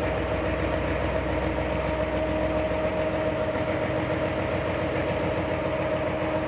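An engine running steadily at an even pitch, with a constant hum and a fast, even throb underneath.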